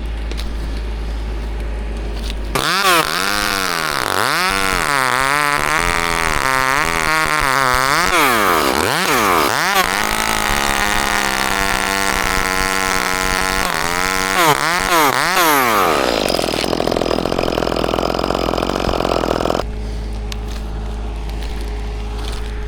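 Chainsaw engine revved up and down over and over, held at a steady high speed for a few seconds in the middle, then dropping back to a low idle hum near the end.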